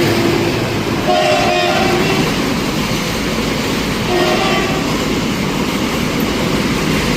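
A train running on the rails with a loud, steady rumble, and two short horn sounds, about a second in and again about four seconds in.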